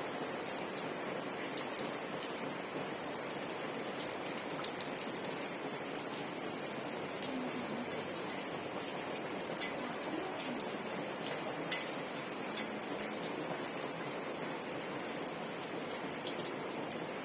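Steady rain falling, with scattered drip ticks and one louder tick about twelve seconds in.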